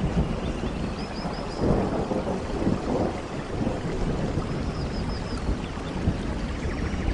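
Steady rainfall, with a low rumble swelling about a second and a half in, typical of distant thunder. Faint quick high chirps come in groups of four, about a second in and again about five seconds in.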